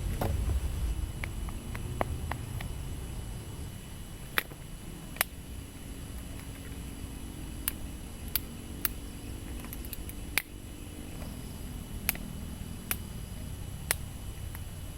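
Campfire crackling: sharp, irregular pops and clicks over a low, steady rumble.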